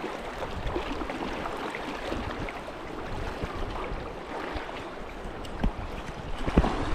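Swift river current rushing steadily, with a couple of dull thumps near the end.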